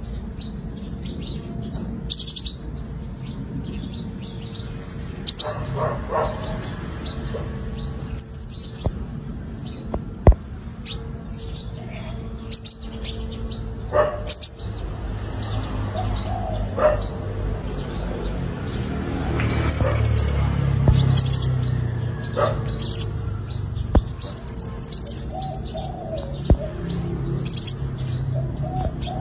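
Five-coloured sunbird singing in short, very high-pitched trills and chirps that come every second or two, with a few sharp clicks between them.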